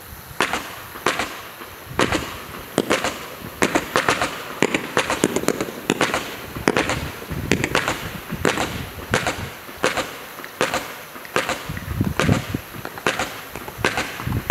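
Aerial fireworks firing shot after shot from the same spot, a sharp bang about every two-thirds of a second starting about half a second in.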